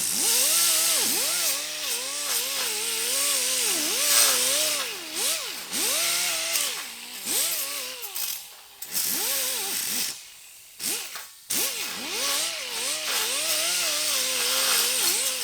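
Handheld power grinder working on sheet-metal weld, its motor pitch dipping and recovering again and again as it is pressed into the metal. It stops for a moment about ten seconds in, then runs again.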